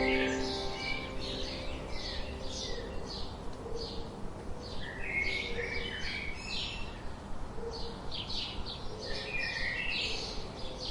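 Songbirds chirping and tweeting: many short, quick chirps in clusters throughout, over a low steady hiss. Sustained music notes fade out in the first second.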